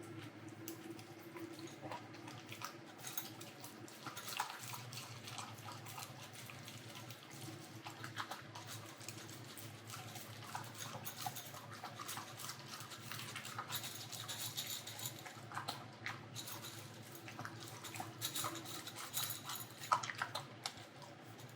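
A dog eating from a bowl: irregular wet chewing, licking and lapping sounds.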